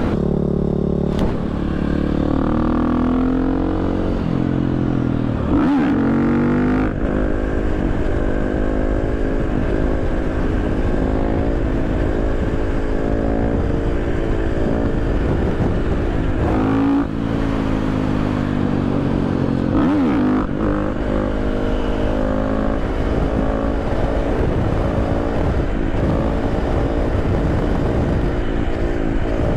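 Supermoto motorcycle engine running under way, its revs rising and falling repeatedly as the rider works the throttle and gears, with a short drop in revs about halfway through.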